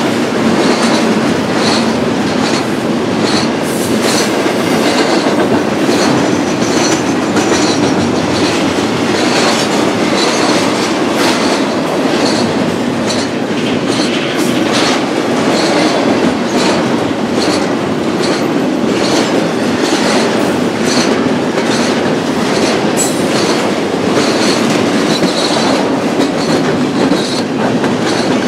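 A BNSF double-stack intermodal freight train rolling past, its container cars' wheels clicking steadily over the rail joints in a continuous loud run.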